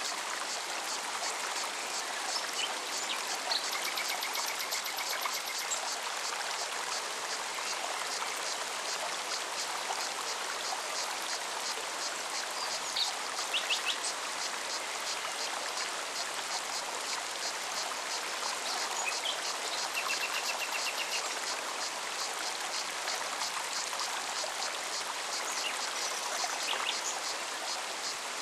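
Forest stream running steadily, with the rapid, high, regular ticking of cicadas over it and a few short bird chirps now and then.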